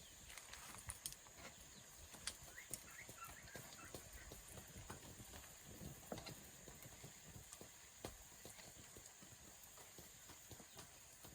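Faint, scattered clicks and light knocks at an irregular pace over a quiet background hiss.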